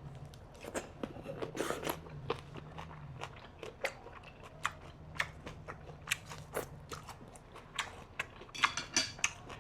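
Close-up chewing of a fresh roll of boiled pork belly, herbs and winged beans: irregular crisp crunches and wet mouth clicks, coming thicker near the end.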